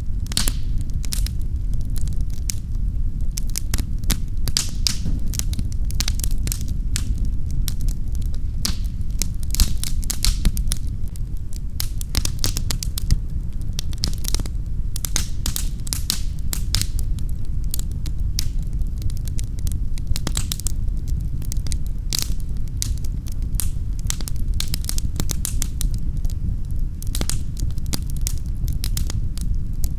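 Wood fire crackling in a fireplace: many sharp crackles and pops, irregular and dense, over a steady low rumble.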